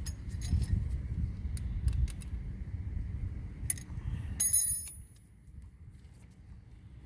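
Metal tools clinking against the brake caliper, a few light clicks and then one louder ringing clink about four and a half seconds in, over a low rumble that drops away just after.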